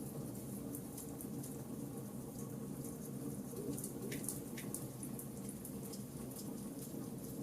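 Charcoal fire burning, with frequent small crackles and pops at irregular intervals over a steady low rumble; two sharper pops come about four seconds in.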